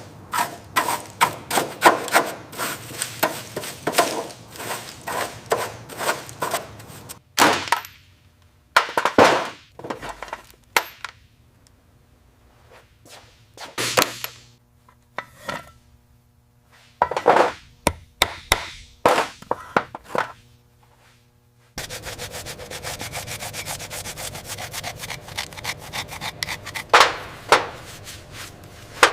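Repeated rubbing strokes of a tool against a surface, as in sanding or scrubbing by hand. Quick, dense strokes come first, then slower separate strokes with quiet gaps, then quick strokes again starting abruptly about two-thirds of the way through.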